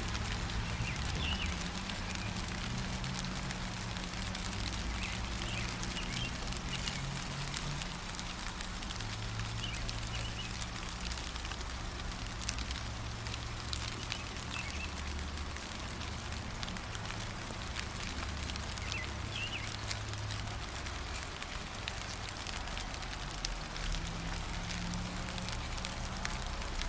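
Gentle rain falling steadily, with many small drips and a few brief, faint bird chirps scattered through it, over a low steady rumble.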